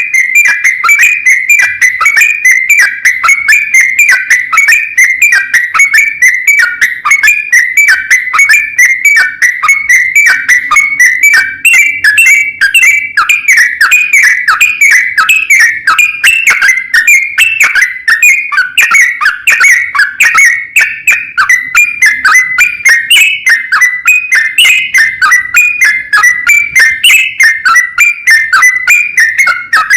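Yellow-vented bulbul (trucukan) singing its long, unbroken 'ropel panjang' song: rapid whistled chattering notes, several a second, held around one pitch with no pause. This is the kind of song used as a lure to provoke other bulbuls into answering.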